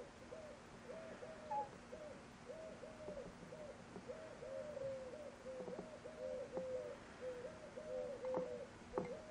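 Bird cooing: short low hooting notes repeat two or three times a second throughout. Over it come a few light sharp taps, the loudest near the end, from the kitten's paw on the glass jar.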